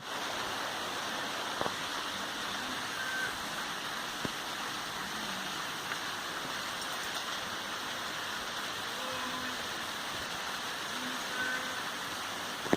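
Heavy rain falling steadily in a storm, a constant hiss, with a couple of sharp ticks in the first few seconds.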